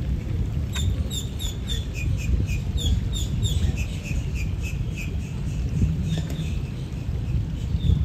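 A bird chirping runs of short high notes, about three a second, one run pitched higher than the next, over a steady low rumble.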